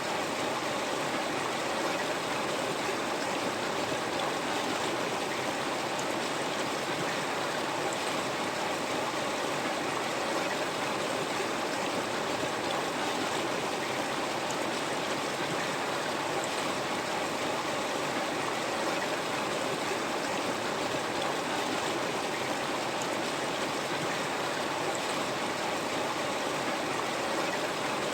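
River water flowing and rushing steadily, a continuous even roar with no changes.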